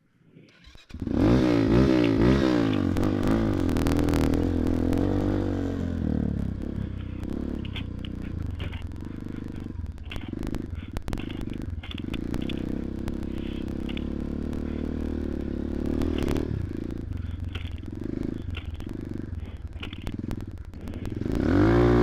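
Motoland XR250 enduro motorcycle's single-cylinder four-stroke engine revving hard from about a second in, its pitch swinging up and down, then running under load off-road with regular surges of throttle, and revving up again near the end.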